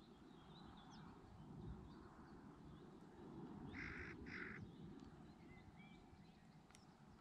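Two short harsh bird calls, about half a second apart, about four seconds in, over a faint low rumble and a few faint high chirps.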